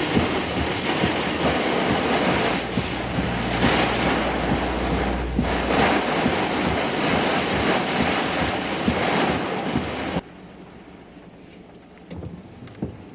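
Strong rear-flank downdraft winds buffeting the chase vehicle: a loud, steady rushing that drops off abruptly about ten seconds in.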